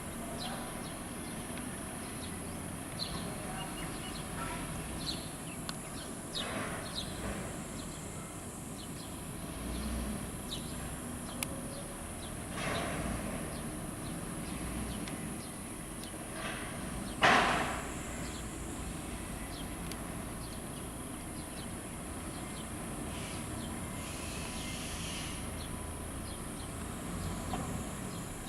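Light-vented bulbul giving short, sharp, harsh alarm calls at irregular intervals, one much louder about 17 seconds in: a parent bird scolding people near its chicks. Under the calls is a steady high hiss and a low background hum.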